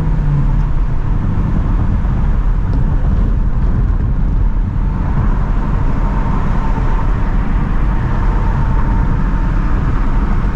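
Ford Shelby GT350's 5.2-litre flat-plane-crank V8 running steadily at part throttle while cruising, with a constant low rumble and road noise and no revving up or down.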